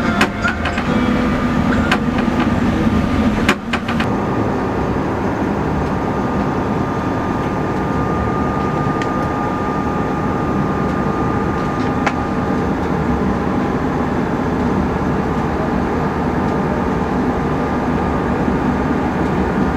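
A yacht's engine running steadily under way, with a couple of brief knocks in the first few seconds.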